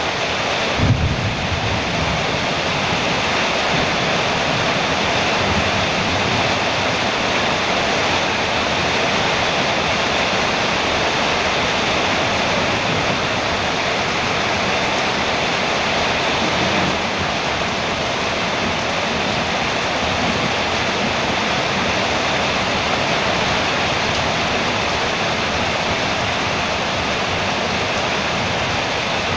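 Heavy rain falling steadily on a metal roof, a dense, even hiss. A short low thump about a second in.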